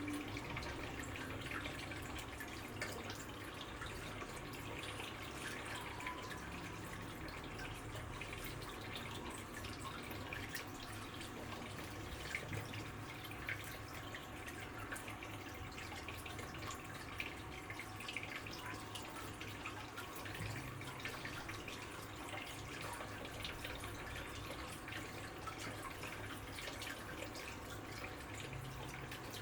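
Water dripping and trickling steadily, with many small irregular splashes.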